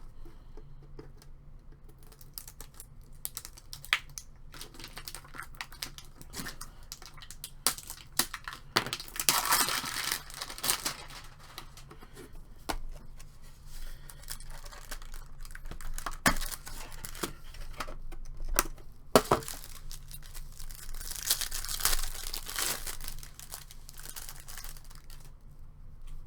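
Wrapping torn and crinkled while a trading-card tin is opened and its cards handled, with scattered sharp clicks and taps. The crinkling comes in two longer stretches, about a third of the way in and again past the middle.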